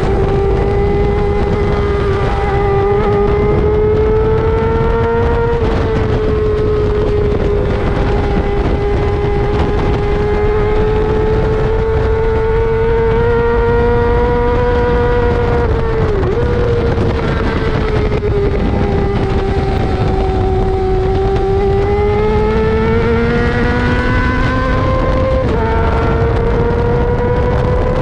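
Racing sportbike engine running hard at high revs, its note holding high and wandering with throttle, with a steady rush of noise underneath. The pitch drops or dips suddenly three times at gear changes.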